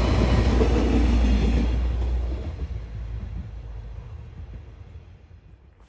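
ODEG Stadler GTW diesel multiple unit passing close by and running away: a loud rolling rumble of wheels on rail that fades steadily after about two seconds and has nearly died away by the end.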